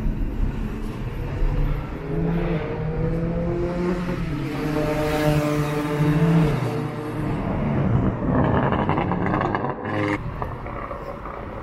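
Traffic passing close by: a vehicle's engine note rises, holds for a few seconds, then falls away as it passes. A second, buzzing vehicle sound follows and stops abruptly near the end.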